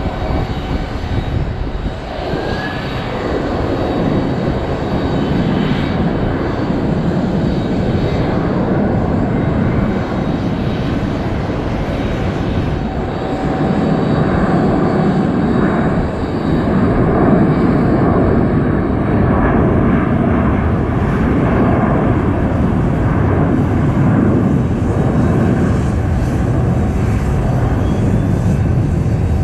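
Jet airliner's engines, a loud steady rush, growing somewhat louder about halfway through as the plane passes.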